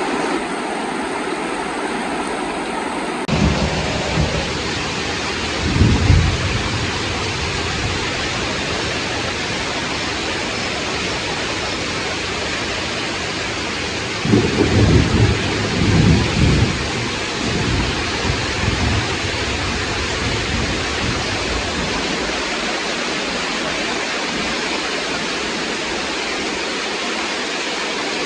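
Heavy rain falling steadily, with thunder rumbling several times: short rumbles about four and six seconds in, and a longer rolling one from about fourteen to nineteen seconds in.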